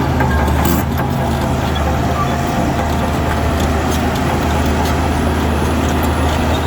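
Heavy diesel engine of earthmoving machinery running steadily as a low drone, with a few faint clicks about a second in.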